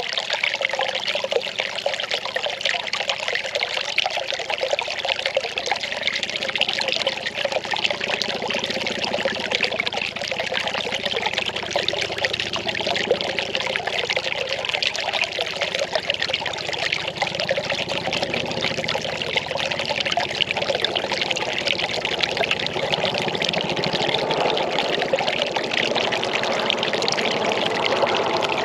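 Well water pouring and splashing steadily into water below, a continuous trickling rush.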